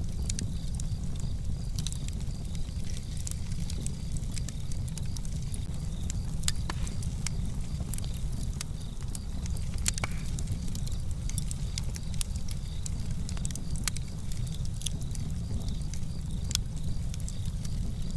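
Wood fire in a fireplace crackling, with many small sharp pops at irregular intervals over a steady low rumble.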